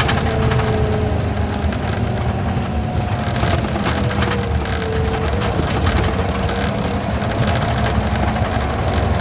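Isuzu Gala coach's V engine running while the bus travels, heard from inside the cabin: a steady low rumble with a faint whine that slowly falls in pitch.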